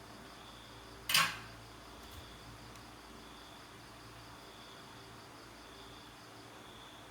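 A single short clatter, about a second in, of the kind a hard object makes when knocked or set down on a workbench. Behind it, crickets chirp faintly and steadily over a low hum.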